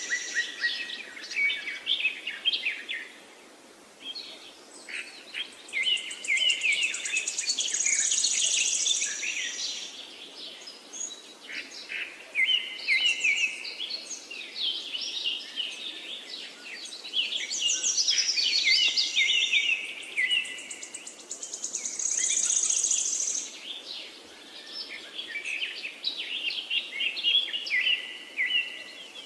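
Parakeets chirping and chattering in rapid runs of high chirps and trills, with short lulls between bouts.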